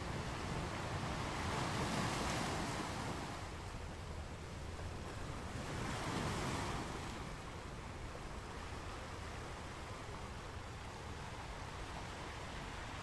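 Torn book-page scraps rustling as they are handled and slid over a kraft paper journal page and burlap, in two swells about two and six seconds in, over a steady hiss.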